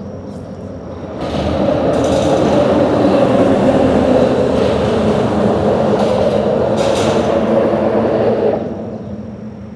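A vehicle passing over a bridge. It grows louder about a second in, holds a steady hum with a low-pitched drone, and falls away near the end.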